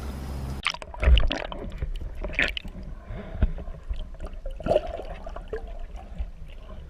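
Water splashing and gurgling in irregular short bursts, with scattered drips and clicks.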